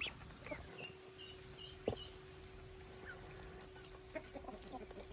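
Chickens clucking, with short high peeps and one sharp knock about two seconds in.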